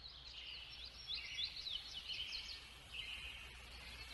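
Birds chirping: a busy run of short, high chirps that rise and fall in pitch, over a faint steady low hum.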